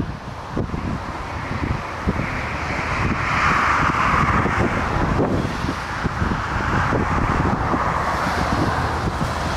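Strong gusty wind buffeting the microphone, with a jet airliner's engine noise swelling about two seconds in, loudest near the middle, then easing as the aircraft passes.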